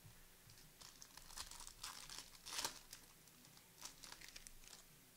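Faint crinkling and tearing of plastic trading-card pack wrappers as the cards are handled: a cluster of short crackles, loudest about two and a half seconds in.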